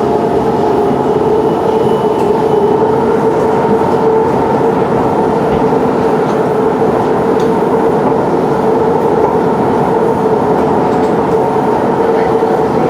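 Siemens C651 metro train running at a steady speed: continuous wheel-on-rail rumble with a steady motor hum held at one pitch.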